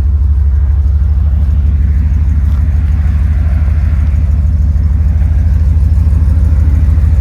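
A 5.3-litre Vortec V8 idling steadily shortly after a cold start, with a deep, even exhaust rumble heard at the tailpipe.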